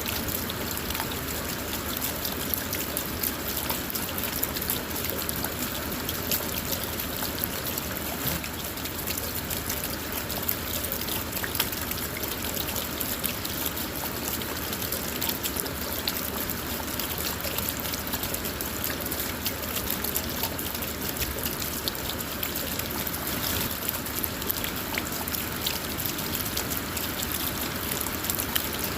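Steady rain falling on a car, heard from inside the car: an even hiss of rain with many small ticks of individual drops striking the body and glass.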